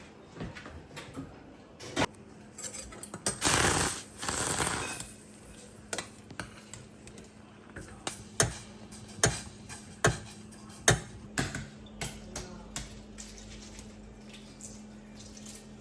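Kitchen work: dishes and utensils knocking and clinking, a string of separate sharp knocks, with a brief rushing noise about three to five seconds in and a faint steady hum under it.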